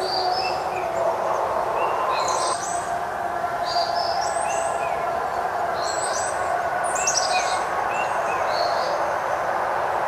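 Several small birds chirping and singing in short repeated phrases over a steady background hum.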